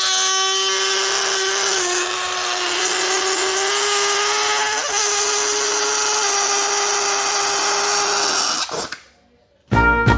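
Air escaping through a stretched latex balloon's neck in one long, steady squeal with a hiss, wavering slightly in pitch and cutting off near the end. Music with a beat starts just after.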